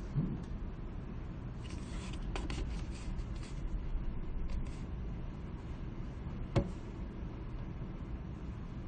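Library room ambience: a steady low hum of background noise, with faint rustling and scraping about two seconds in, a soft thump near the start and one sharp tap about two-thirds through.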